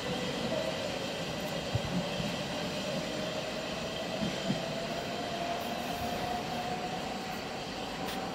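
Electric multiple-unit passenger train pulling away from the station, its motors giving a whine that slowly rises in pitch as it gathers speed over a steady rumble, with a few brief knocks from the wheels.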